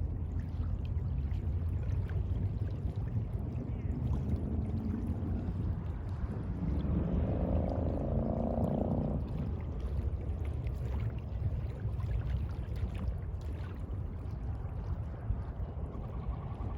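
Sea ambience: a steady low rush of water. From about four to nine seconds in, a faint pitched drone rises slightly, and near the end a thin high tone comes in.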